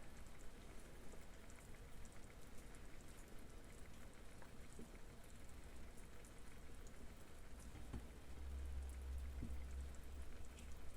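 Faint bubbling of a pan simmering on the stove, with light ticks and patter; a low rumble comes up about eight seconds in.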